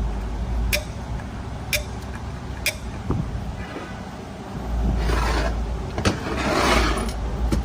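Workshop handling noise: sharp clicks about once a second, then two longer scraping, hissing sounds in the second half, over a low rumble.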